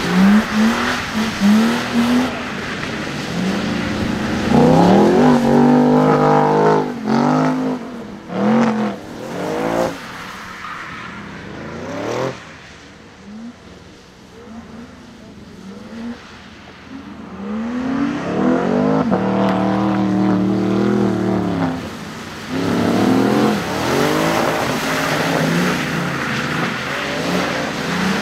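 BMW E36 3 Series Compact drift car's engine revving up and dropping in repeated hard pulls as it slides on a wet track, with quick rhythmic rev pulses near the start and end. The engine fades for a few seconds in the middle.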